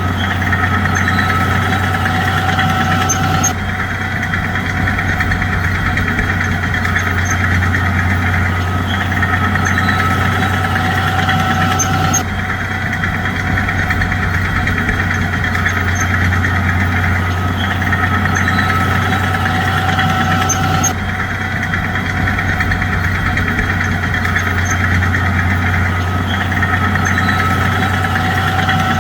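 Bulldozer's diesel engine running steadily with a low drone. The sound shifts abruptly about every nine seconds.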